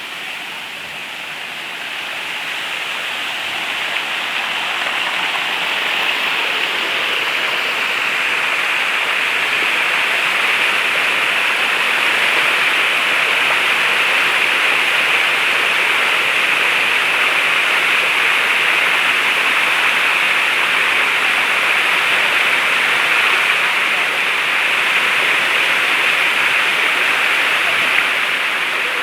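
Rushing water of a waterfall, a steady hiss-like rush that grows louder over the first several seconds and then holds steady.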